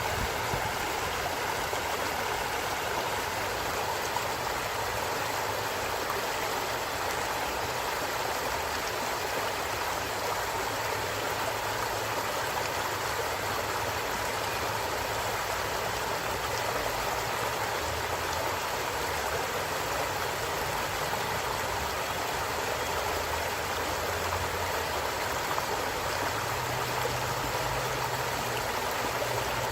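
A flowing stream, its water rushing and gurgling in a steady, unbroken wash of sound.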